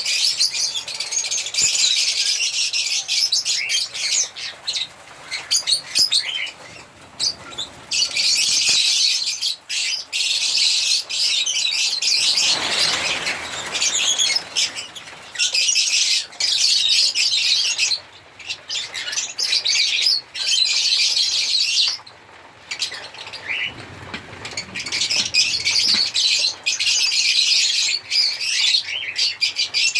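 A flock of lovebirds chirping and chattering, dense and high-pitched, with short lulls every few seconds. A brief rustle, lower in pitch, comes about halfway through.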